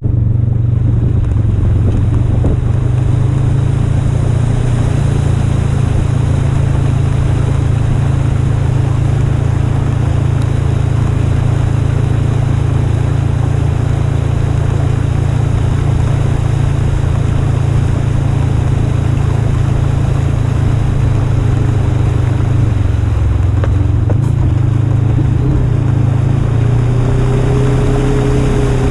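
Polaris RZR 1000 side-by-side engine running under steady load while driving, a constant low drone with road and water noise over it. The engine note shifts briefly about two-thirds of the way through, and a higher whine joins near the end.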